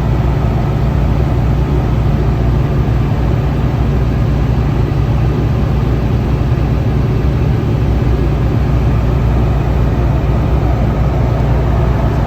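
Tecnam P2002JF light aircraft's four-cylinder Rotax 912 engine and propeller running at a steady, unchanging drone in smooth flight.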